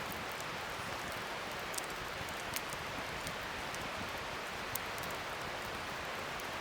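Wood fire burning in a fire pit: a steady crackling hiss with a few sharp pops of burning wood.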